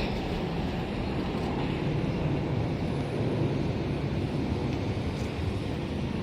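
Jet airliner engines giving a steady low rumble.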